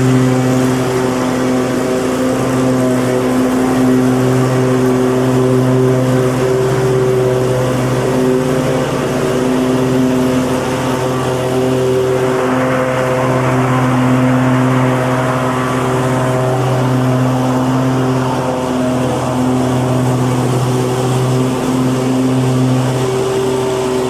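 Lawnmower engine running steadily at a constant speed, with a steady engine hum under a hiss. The hiss brightens for a few seconds about halfway through.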